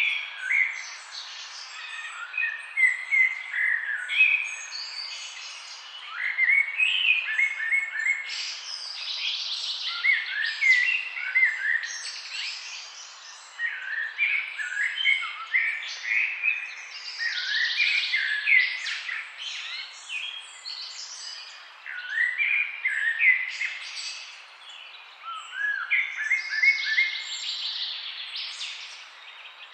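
A chorus of several birds chirping in trees: many short, overlapping chirps, trills and quick rising and falling notes with no real pause.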